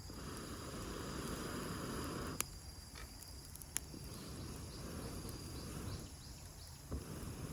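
Campfire with two sharp crackling pops, over steady chirring of crickets. A rushing of air comes and goes in stretches of about two seconds.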